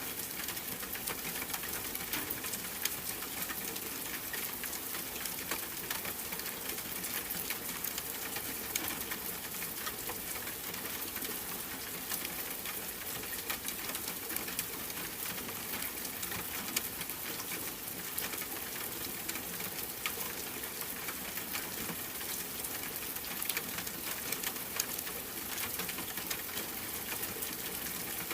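Steady rain ambience: an even patter of many small drops with a light crackle, holding level throughout.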